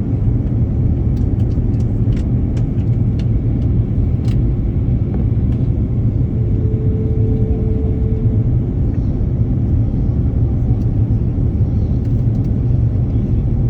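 Steady low rumble of an airplane, with a faint steady tone for a couple of seconds midway and a few light clicks in the first few seconds.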